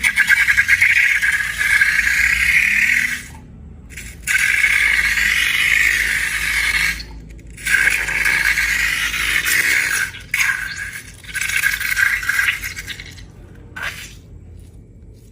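Rattling and scraping in four stretches of a few seconds each, broken by short pauses.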